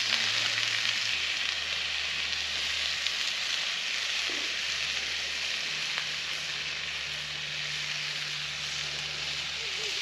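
Meat sizzling as it fries in a pan, a steady hiss.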